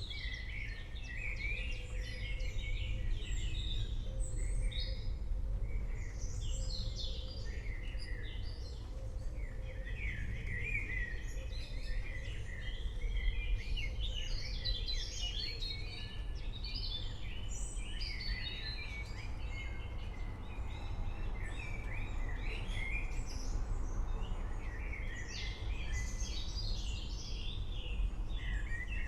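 Many songbirds chirping and trilling continuously in a forest, several at once, over a steady low rumble.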